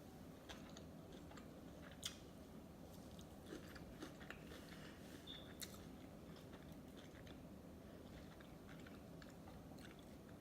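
Faint close-up chewing of sushi, with scattered wet mouth clicks; the sharpest click comes about two seconds in.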